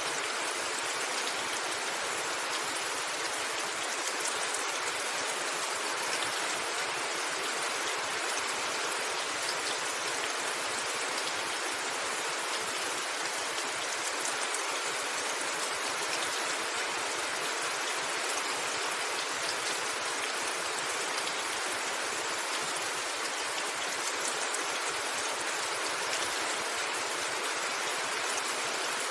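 Steady rain falling on a roof, an even hiss that does not change, with no thunder.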